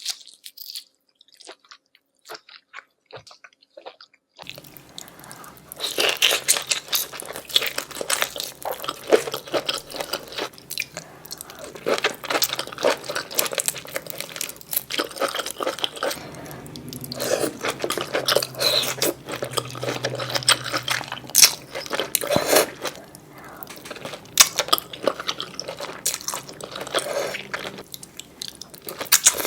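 Close-miked eating of a spicy seafood boil: wet chewing, smacking and crunching in quick, irregular clicks. It starts after about four seconds of near silence.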